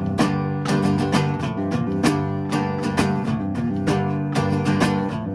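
Instrumental passage of a song: guitar played with regular plucked or strummed notes, other instruments beneath.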